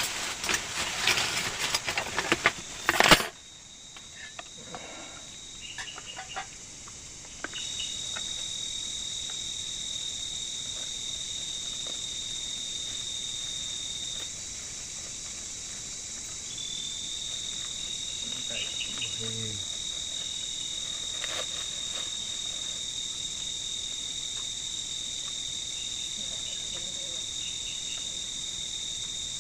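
Steady high-pitched trill of night insects, which sets in loudly about seven seconds in and carries on unbroken. Before it comes a few seconds of rustling and clatter of handling, ending in a sharp knock about three seconds in.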